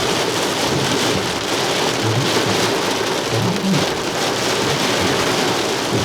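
Small hail and heavy rain pelting down in a steady, dense patter.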